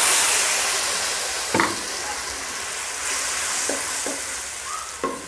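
Tomato purée sizzling loudly in a nonstick wok, where it has just been poured onto garlic fried golden in hot oil. A wooden spatula stirs it with a few scraping clicks. The sizzle slowly dies down as the purée cools the oil.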